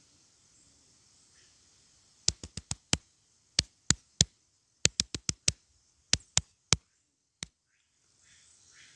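A series of sharp knocks or clicks, about seventeen of them in irregular clusters over about five seconds.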